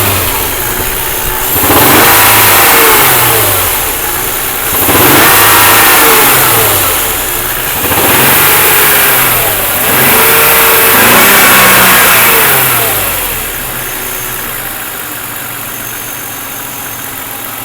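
BMW M52 inline-six petrol engine revved up and let back down about four times, then settling to a steady idle for the last few seconds. The owner puts it up for a knock in the sixth cylinder.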